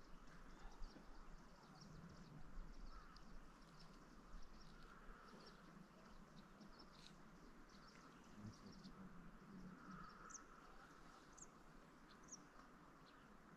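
Near silence, with faint, short, high bird chirps scattered throughout and a few clearer ones near the end.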